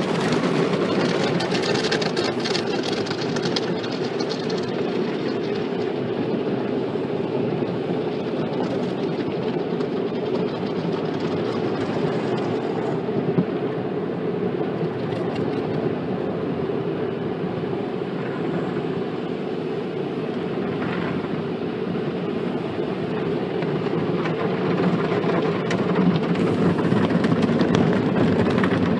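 Automatic tunnel car wash spraying water and washing solution onto the car, heard from inside the cabin as a steady rushing wash that swells a little near the end.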